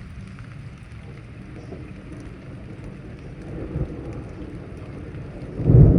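Steady rain, with thunder rumbling in low from about three and a half seconds, then a loud, deep thunderclap breaking in near the end, a few seconds after a lightning flash.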